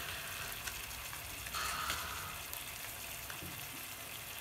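Thick chilli-garlic schezwan chutney sizzling steadily in oil in a nonstick kadai on a gas flame, with a few small pops.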